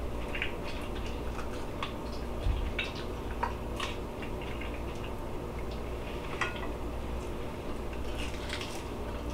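A person chewing an air-fried chicken wing: scattered soft crunches, clicks and mouth smacks over a steady low hum.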